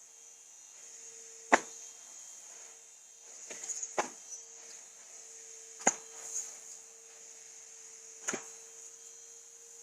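A handful of sharp knocks or taps, a second or two apart, over a faint steady hum.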